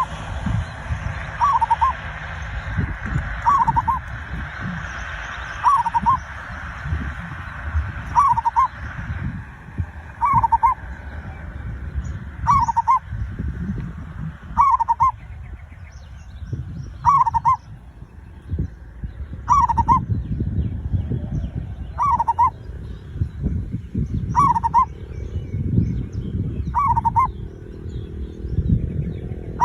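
Zebra dove (perkutut) singing: the same short cooing phrase is repeated roughly every two seconds, over a steady low rumble.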